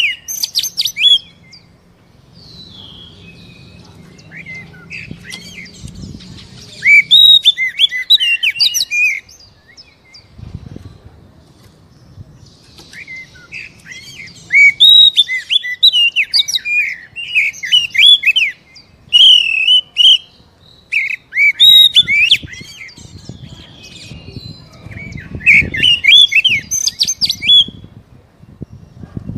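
Oriental magpie-robin (kacer) singing in bursts of rapid, varied chirps and whistles, each burst a second or few long, with pauses of a few seconds between them.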